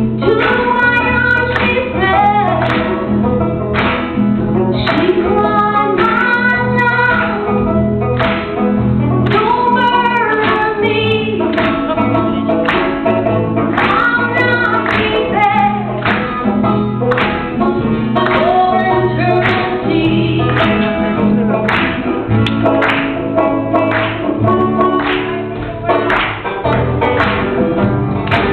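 Singing over a strummed acoustic guitar, a steady rhythmic strum under the sung melody.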